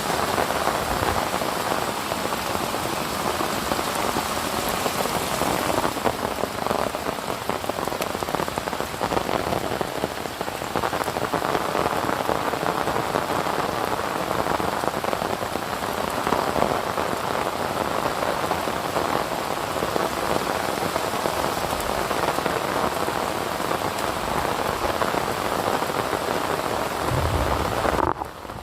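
Steady rain falling, a dense even patter, with a brief dip in level near the end.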